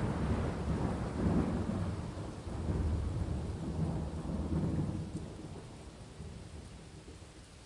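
Thunder rolling on after a clap, the rumble swelling several times before fading away in the second half, over steady rain.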